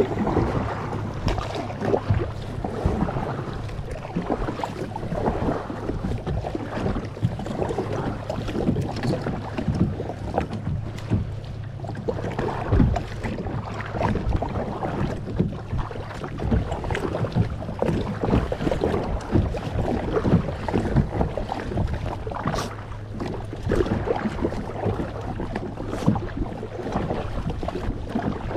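Kayak being paddled through choppy water: irregular splashes of the paddle blades and water slapping the hull, with wind buffeting the microphone.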